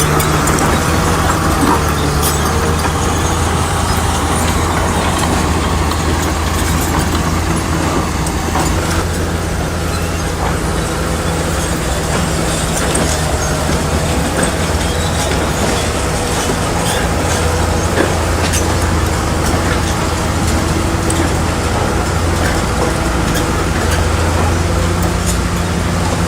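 A bulldozer's heavy diesel engine running steadily, with a strong low hum and a few faint clicks.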